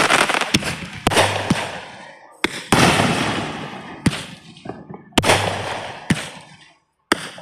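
Aerial fireworks bursting: a string of about eight sharp bangs, some close together in pairs, each fading out over a second or so.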